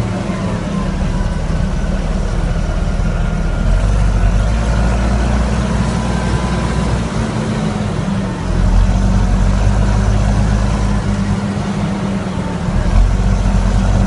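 Fendt 720 tractor's six-cylinder diesel engine running with no exhaust fitted, a loud, deep, steady drone. Its loudness rises a few times, about four seconds in, past the middle and near the end, with brief dips between.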